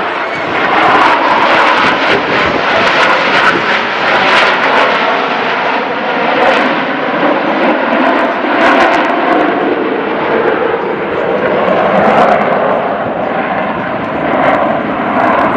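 Fixed-wing aircraft engine running loud overhead: a steady rushing drone that swells and eases a little over several seconds.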